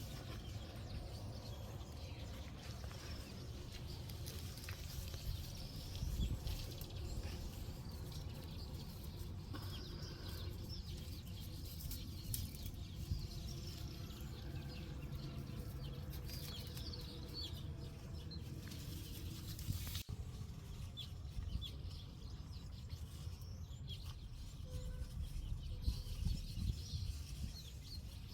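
Outdoor farmyard sounds: small birds chirping in short repeated calls, with chickens clucking, over a low steady rumble.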